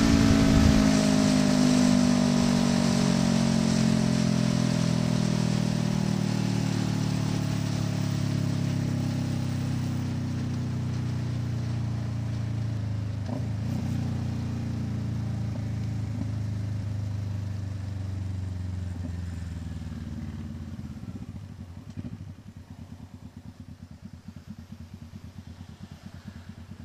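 Kawasaki Ninja 650 parallel-twin through an SC Project exhaust, engine note falling steadily as the bike rolls off the throttle from high revs. After about 21 seconds it settles into a quieter, low, pulsing putter near idle.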